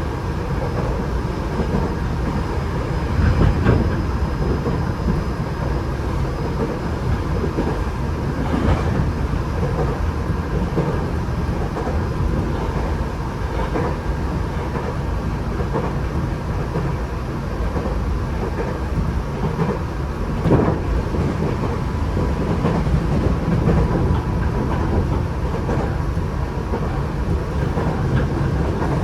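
Tokyo Metro 8000 series electric train heard from inside the car while running at speed: a steady wheel-on-rail rumble with a faint steady whine, and a few knocks as the wheels cross rail joints.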